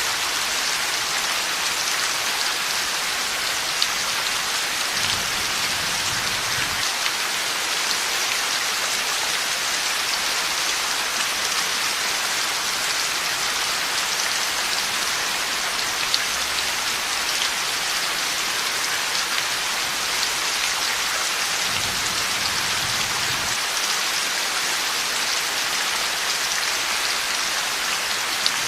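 Heavy, steady rain falling, a dense even hiss with the odd sharper drop hit. Two faint low rumbles of distant thunder come in, about five seconds in and again about twenty-two seconds in.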